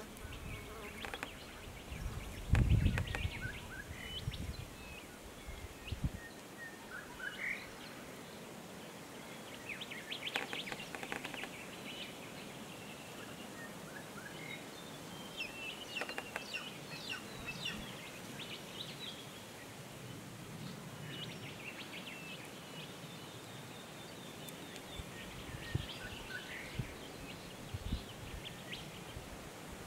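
Scattered short bird chirps and calls over a steady outdoor hiss, with a brief low rumble about three seconds in.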